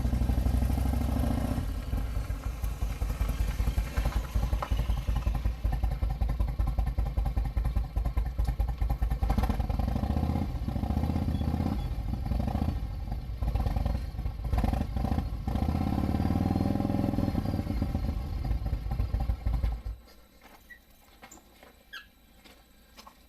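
Harley-Davidson V-twin motorcycle engine running, with a fast, dense low pulsing. It stops abruptly about 20 seconds in, leaving only faint background and a few small clicks.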